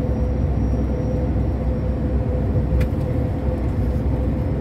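Steady drone of a long-haul truck's engine and road noise heard from inside the cab, with a constant hum running through it, while the truck cruises along the highway. A single faint click comes a little under three seconds in.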